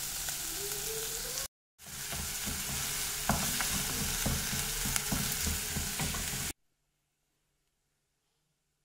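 Chopped onion, green chilli, ginger and garlic sizzling in coconut oil in a non-stick kadai while a wooden spatula stirs and scrapes through them. The sound drops out briefly about a second and a half in, then cuts to silence about six and a half seconds in.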